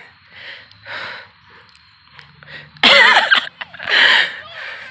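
A person breathing hard in short, noisy gasps about a second apart, with a loud, excited wordless vocal outburst about three seconds in.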